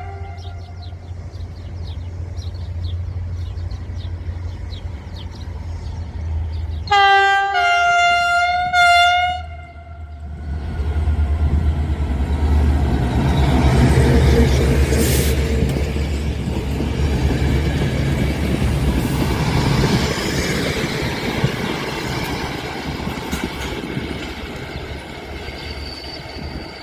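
A diesel locomotive's chord horn sounds one loud blast of about two and a half seconds, over the low drone of its engine. The train then passes close by with a loud, steady rumble of engine and wheels on the rails that slowly fades toward the end.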